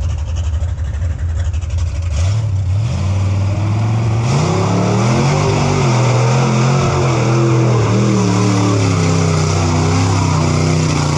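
Mega truck engine revving up about two seconds in, then held at high revs with the pitch wavering up and down as it drives through a deep mud pit. A steady rushing hiss joins from about four seconds in.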